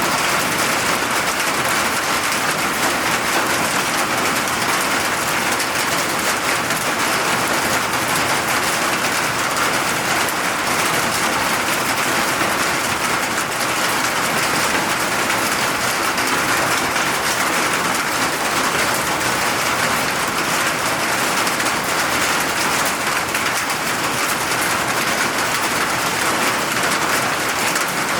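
Steady rain falling, a dense even hiss of many drops with no breaks or surges.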